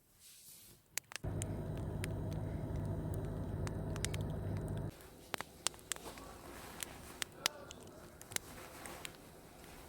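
A small electric motor switches on with a click, runs with a steady whirring hum for about four seconds and cuts off abruptly, followed by scattered light clicks and taps.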